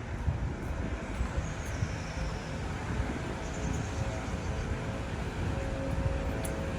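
City street ambience: a steady rumble of road traffic, with a faint hum that holds through the second half.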